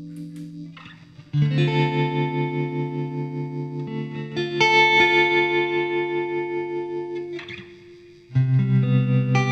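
1995 Fender Strat Plus electric guitar played through a Fractal FX8 effects unit with a lightly distorted tone: chords struck about a second and a half in, again around four and a half seconds, and near the end, each left to ring and fade.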